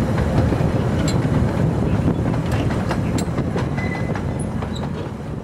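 A 15-inch-gauge miniature railway train running: a steady rumble with scattered clicks of the wheels on the track, slowly growing quieter toward the end.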